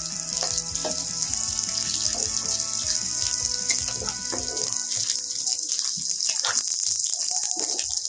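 Chopped onions, green chillies and whole spices frying in hot oil in a non-stick wok: a steady sizzle, with a wooden spatula scraping and knocking against the pan as it stirs.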